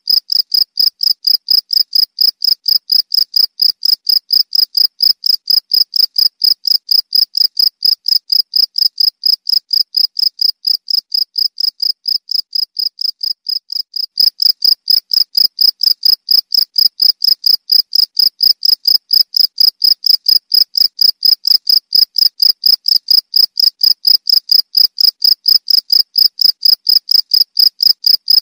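A cricket chirping in a steady, even rhythm of about four pulses a second at one high pitch. The chirps fade slightly just before the halfway mark, then come back louder.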